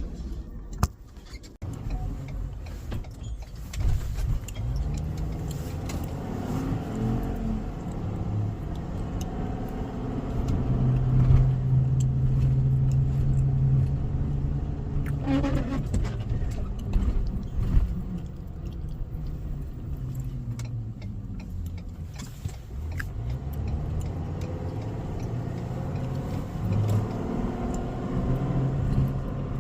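Tow truck's engine running, its pitch rising and falling as the revs change, with a sharp click about a second in.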